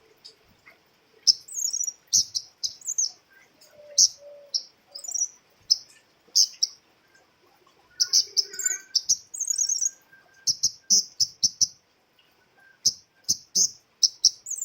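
Female cabai rimba (kemade), a small songbird, calling in sharp high chip notes. The notes come in quick irregular runs, with a few brief warbled phrases pitched higher still.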